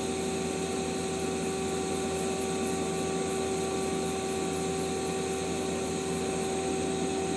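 2006 Mazak Quick Turn Nexus 200MS CNC turning center running under power, its spindle driven in C-axis mode: a steady machine hum with a steady whine.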